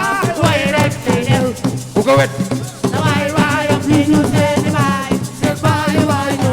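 Live assiko band music: dense percussion with shaken rattles, under a pitched melodic line that bends up and down.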